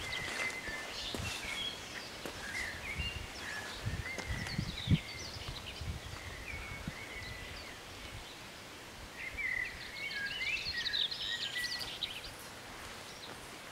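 Small birds chirping and singing in quick, varied phrases, busiest a little past the middle. Low rumbles of wind buffet the microphone in the first few seconds, and there is one sharp knock about five seconds in.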